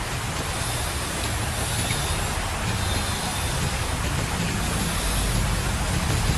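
Heavy rain falling as a steady, even hiss, with gusting wind rumbling low underneath.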